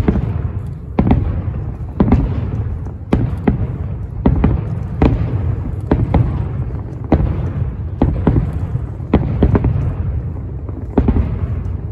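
Aerial fireworks shells bursting, a rapid series of sharp bangs about one or two a second, each trailing off in a low rumble and echo.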